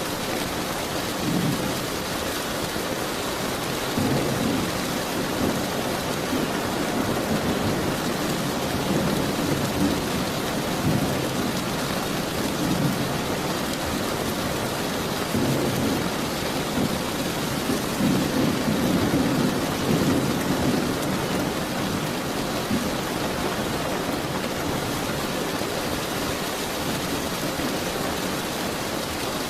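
Steady rain with thunder rumbling on and off, the low rumbles swelling several times and loudest about two-thirds of the way through.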